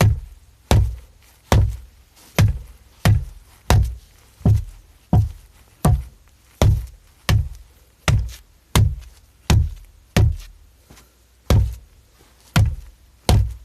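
Gloved fists punching a wall hard and repeatedly: a steady run of heavy, deep thumps, about one and a half a second, with a brief pause about eleven seconds in.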